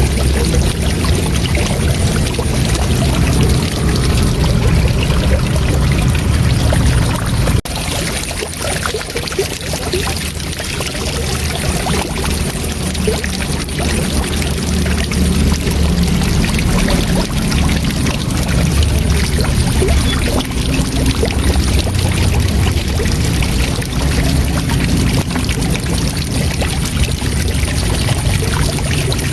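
Waterfall: a steady, full rush of falling water, heaviest in the low end, with a brief dip in level about seven and a half seconds in.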